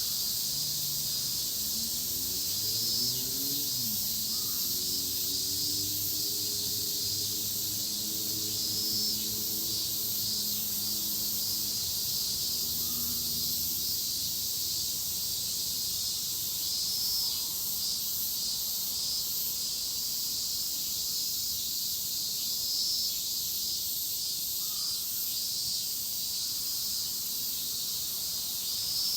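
Dense chorus of cicadas: a steady, high-pitched shrilling hiss. Under it, a low hum with several tones rises in pitch about two to four seconds in and fades out about twelve seconds in.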